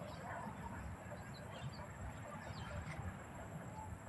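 Many small birds chirping, short scattered calls from a flock, over a steady low background rumble.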